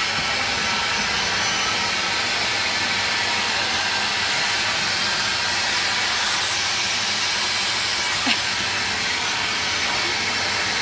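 Vacuum cleaner running steadily: an even rushing hiss of air with a faint motor hum, and a brief knock about eight seconds in.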